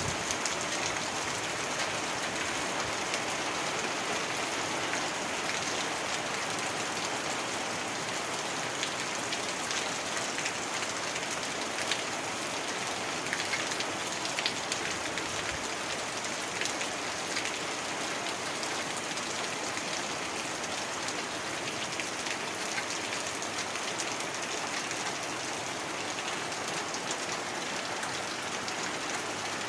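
Heavy rain falling steadily: a dense, even hiss scattered with many small drop ticks.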